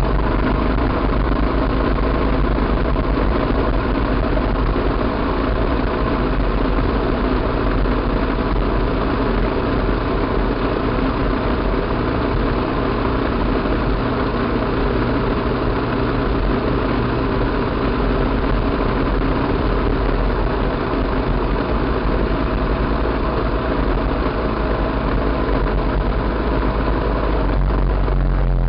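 Enduro motorcycle engine running at a fairly steady speed while riding along a gravel road, over a deep rumble.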